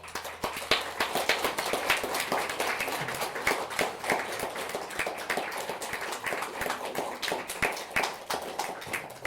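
Audience applauding: many hands clapping, starting suddenly and keeping on steadily.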